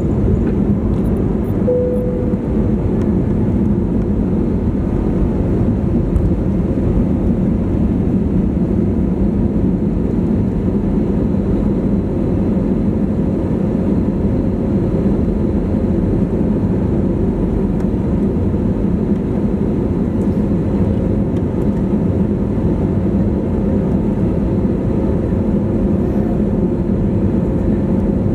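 Cabin noise inside an Airbus A320neo at takeoff power, with Pratt & Whitney PW1100G geared turbofans: a steady, loud rumble of engines and airflow, with a faint steady hum that comes in about two seconds in.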